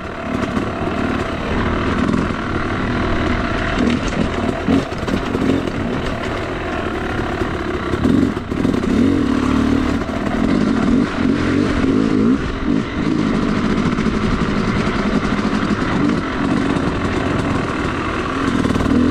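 Yamaha YZ250 two-stroke dirt bike engine being ridden on a trail, its revs rising and falling continuously with the throttle.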